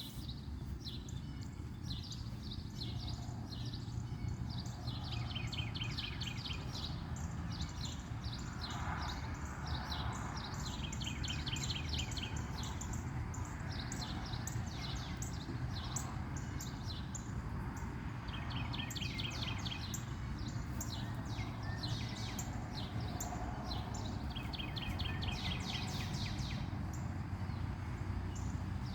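Several birds singing and chirping, one repeating a rapid trilled phrase about every six seconds, over a steady low rumble.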